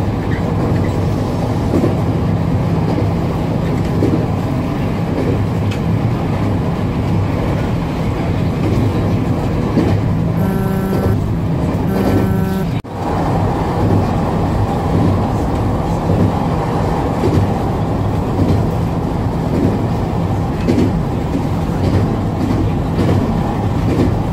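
Electric train running on the line, heard from inside the driver's cab: a steady rumble of the wheels on the rails with a low motor hum. About halfway through come two short pitched tones, about a second apart.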